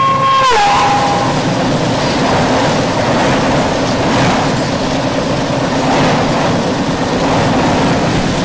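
Horn of an oncoming electric locomotive on the next track, dropping in pitch as it passes about half a second in and stopping soon after. Then the steady rush and rumble of its passenger coaches going past close alongside the moving train.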